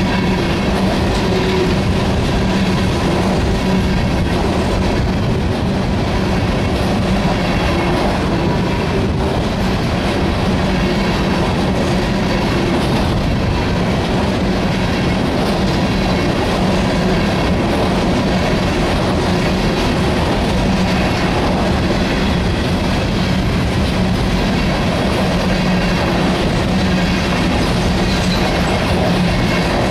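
Empty freight hopper cars rolling past, a steady loud rumble of steel wheels on rail with clickety-clack over the joints.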